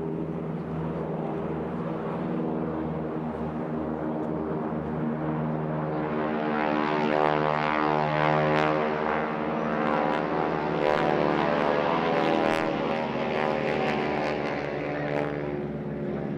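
Boeing Stearman biplanes' 450 hp Pratt & Whitney radial engines buzzing in flight. The sound grows louder from about six seconds in and eases off near the end as they pass.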